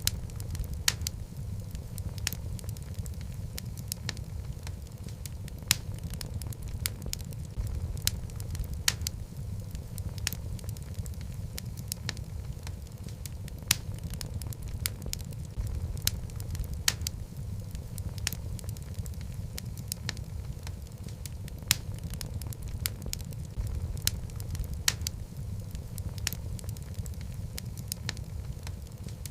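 Wood fire of burning logs in a fireplace: a steady low rumble of flames with sharp, irregular crackles and pops several times a second.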